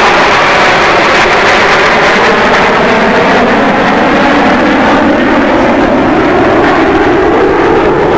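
Jet engines of F-16 Fighting Falcon fighters on a low flyby, a loud steady roar with a slow swishing sweep in pitch as the jets pass.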